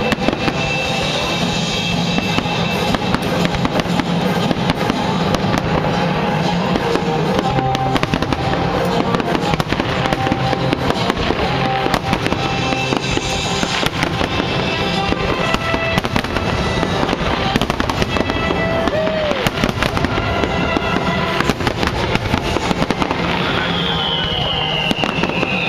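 Fireworks bursting in a rapid, continuous barrage of bangs and crackles, with music playing underneath. A falling whistle sounds near the end.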